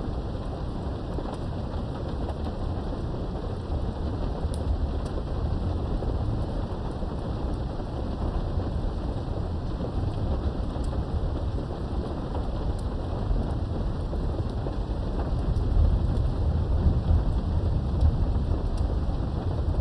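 Steady rain with a low rumble of thunder, heard from indoors behind a window; the rumble swells and grows louder near the end.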